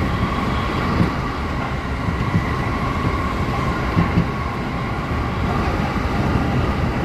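Inside a moving JR commuter train car: steady rumble of wheels on the rails, with a faint motor whine held at a steady pitch.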